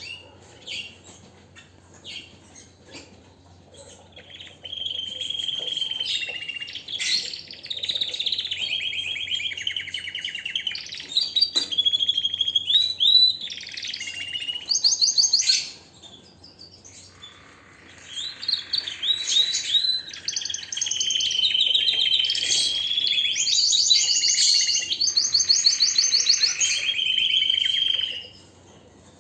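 Domestic canary singing two long song phrases of rapid trills and whistled notes, with a short pause between them about halfway through.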